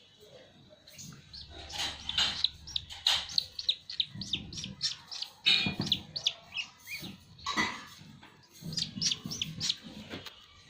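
Duckling peeping in short, high calls, several a second, with a few louder scuffling noises in between as it struggles to right itself.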